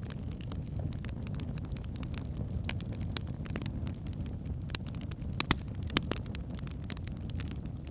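Wood fire burning in a fireplace: a steady low rumble of flames with scattered sharp crackles and pops of burning logs, a couple of louder pops past the middle.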